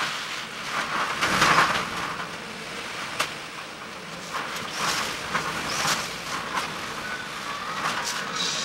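Typhoon wind and rain: a rushing noise that surges in gusts, loudest about a second and a half in, with scattered sharp taps.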